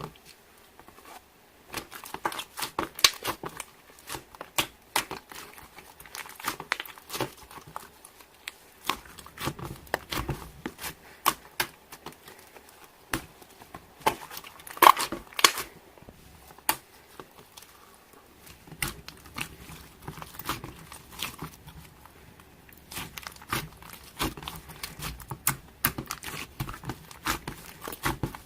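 Slime being squished, poked and stretched by hand, giving irregular sharp clicks and crackling pops, several a second, loudest about halfway through.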